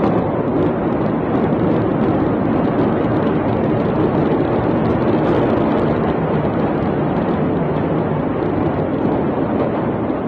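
A loud, steady rush of noise with no breaks or distinct impacts.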